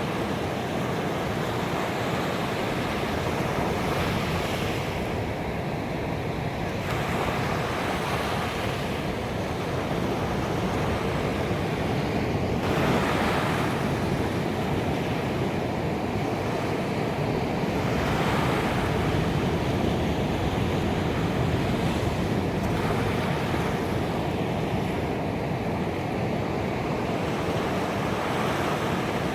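Ocean waves breaking on a beach, a steady wash of surf that swells with each wave every five or six seconds.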